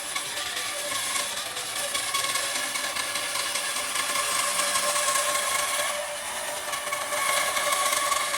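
An electric power tool running steadily on wood, a motor whine over a hiss, easing off slightly about six seconds in and then picking up again.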